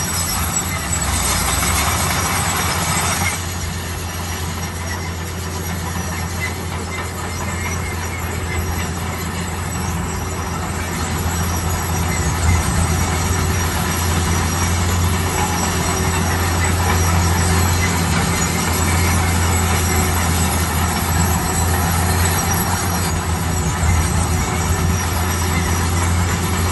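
Heavy construction machine's engine running steadily, with a continuous mechanical din over a low hum. The din is brighter and harsher for about the first three seconds, then settles slightly.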